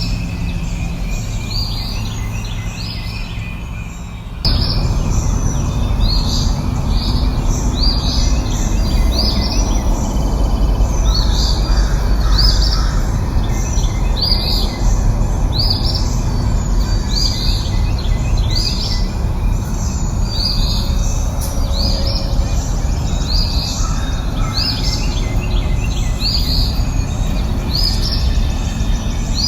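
A bird calling over and over, a short high chirp that drops in pitch, repeated a little more than once a second, over a steady rushing background noise. The rushing noise jumps louder suddenly about four seconds in.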